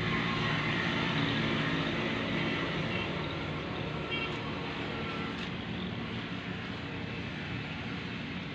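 Ford 3610 tractor's three-cylinder engine running steadily.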